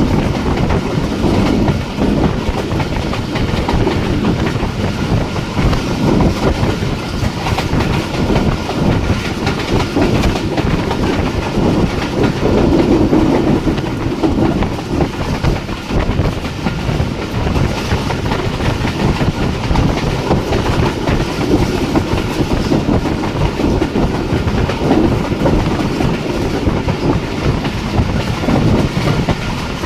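Jaffar Express passenger train running at speed, its wheels clattering steadily over the rail joints.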